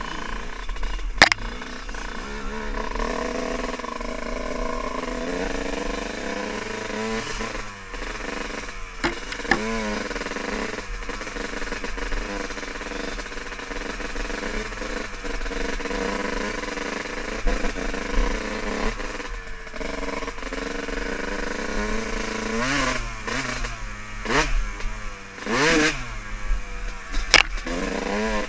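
Dirt bike engine running steadily under way, then revved up and down several times in quick succession near the end, with a couple of sharp knocks.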